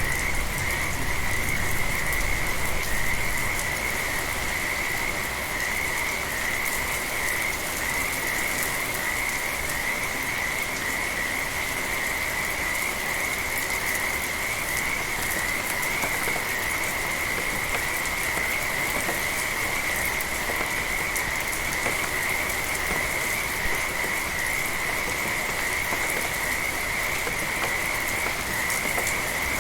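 A chorus of frogs calling without a break, merging into one steady high-pitched trill, over steady rain with the patter of drops.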